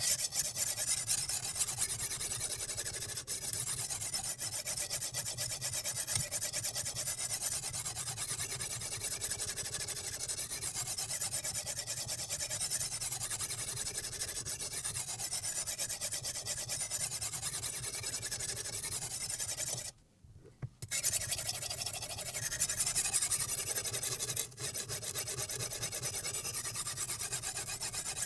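Silicon carbide water stone on a guided knife-sharpening system rasping back and forth along the edge of a Damascus steel chef knife, stopping briefly about 20 seconds in before the strokes resume.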